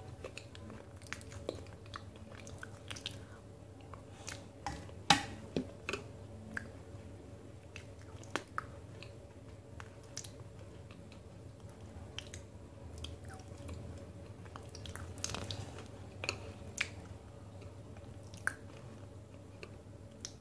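Close-up chewing and mouth sounds of a person eating a thick multani mitti (Fuller's earth clay) paste, soft and irregular, with a few sharp clicks between mouthfuls.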